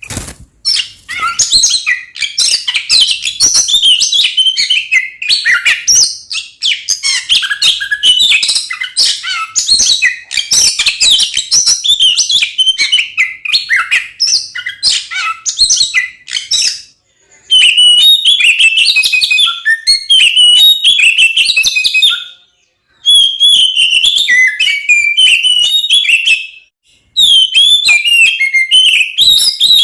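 Oriental magpie-robin (kacer) singing its loud, aggressive fighting song: a fast, unbroken run of varied whistles and chirps for about the first seventeen seconds, then three shorter bursts with brief pauses between them.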